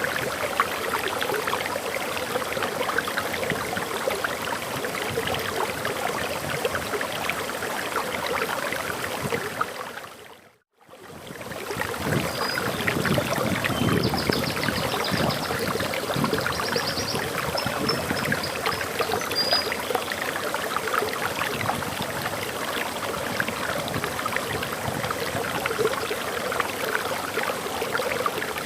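Waterfall, water pouring and splashing in a steady rush. About ten seconds in it fades out and back in. Soon after, a small bird chirps faintly a few times with high, short notes.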